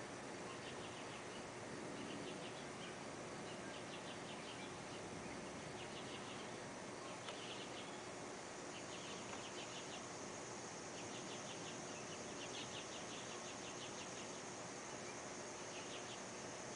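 Insects chirping in short trains of rapid pulses that repeat every second or so, over a steady hiss, with a faint high buzz joining about halfway through.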